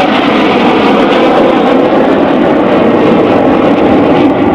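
Jet noise from BAE Hawk T1 trainers flying their display, loud and steady throughout.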